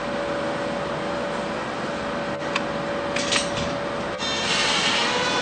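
Screws being started into a shower door's top track: rubbing and scraping with a few light clicks, then about four seconds in a cordless drill/driver motor starts running with a steady whine.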